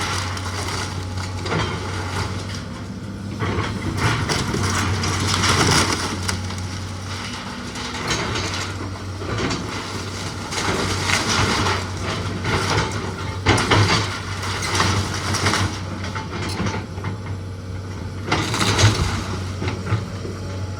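Old wooden house being demolished by a heavy machine: a steady engine hum runs under repeated crashes of wood breaking and collapsing, with the biggest crashes about a third of the way in, midway, and near the end.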